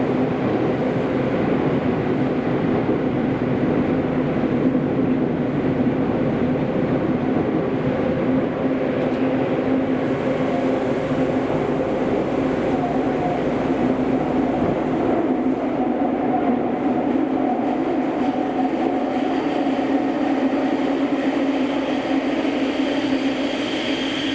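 Kobe City Subway 5000-series linear-motor train heard from inside the car while running between stations: a steady rumble of wheels and tunnel noise with a constant motor hum. A higher whine comes in near the end.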